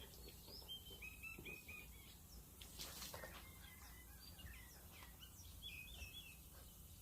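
Faint birdsong: a run of four short chirps about a second in and more chirping near the end, over a low background hum, with a brief noisy sound about three seconds in.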